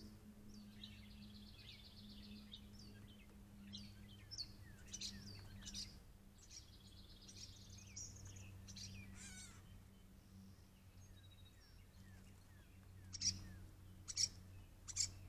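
Gray catbirds calling: chattering, rattling trills and short chirps through the first half, then three sharp, loud calls near the end. A faint steady low hum runs underneath.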